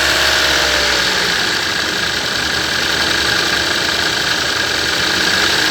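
Toyota Yaris engine running with a steady strange noise that sounds like a VVT-i gear but comes from a faulty alternator.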